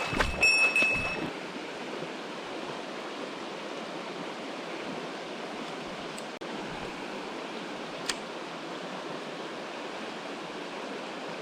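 Mountain stream rushing steadily, an even wash of flowing water, with a few clicks and knocks of handling in the first second and one small click about 8 seconds in.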